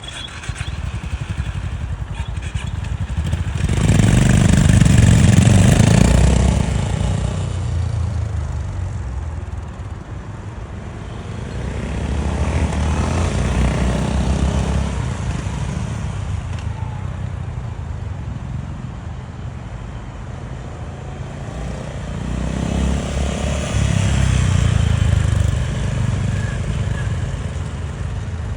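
Honda GB350's air-cooled single-cylinder engine running through its stock exhaust, a low pulsing thump that swells louder three times and eases back in between.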